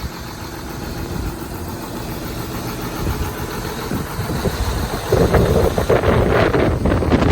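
John Deere 6920 tractor's six-cylinder diesel engine idling steadily, with wind buffeting the microphone from about five seconds in.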